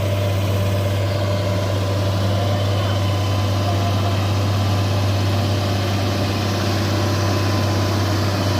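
Heavy vehicle engine idling steadily, a constant low hum with no revving.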